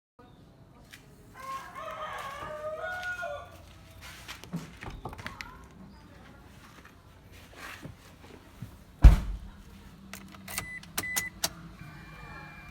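A rooster crowing, a long bending call about a second in, with a fainter call near the end. About nine seconds in there is a loud single thump, followed by a low steady hum and a few sharp clicks.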